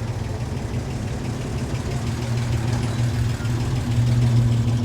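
A vehicle engine running at a steady idle, a low even hum that gets somewhat louder about four seconds in.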